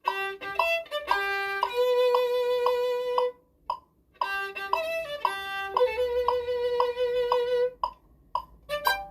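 Violin playing a slow melody over a held, recurring note, thinning to short separate notes near the end.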